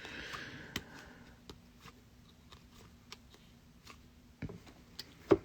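Trading cards being handled and sorted by hand: a short sliding rustle at the start, then scattered light clicks and taps of card stock, with a sharper tap near the end.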